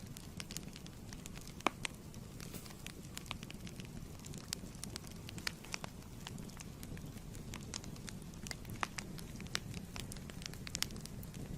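Fireplace wood fire burning, with a steady low rumble and frequent irregular sharp crackles and pops.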